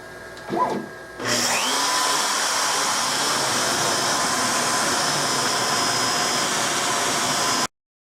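CNC router spindle starting up, a rising whine as it spins up, then running steady with a loud hiss. It cuts off suddenly near the end.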